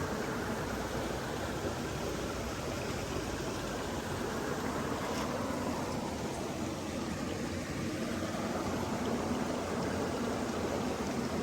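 Running water rushing steadily, like a stream.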